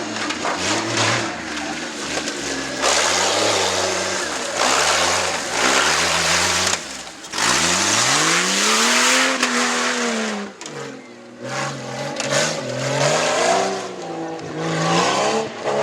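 Truck engine revving up and down repeatedly as a stock-class tuff truck works the course, with one long climb in pitch about eight seconds in that falls away shortly before eleven seconds.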